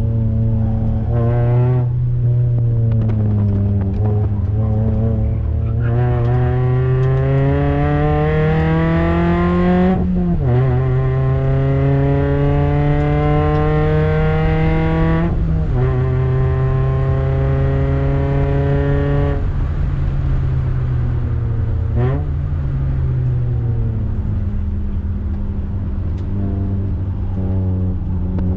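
Toyota Yaris NCP91 race car's 1.5-litre four-cylinder engine pulling hard. The engine note climbs for about four seconds, then falls sharply at an upshift about ten seconds in. It holds steady, drops again at a second shift around fifteen seconds, and settles to a lower, steadier note over the last several seconds.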